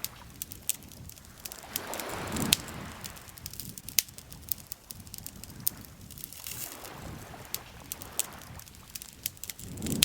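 Campfire crackling, with irregular sharp pops, the loudest about two and a half and four seconds in. Beneath it, lake water laps in soft swells that rise and fade about every four seconds.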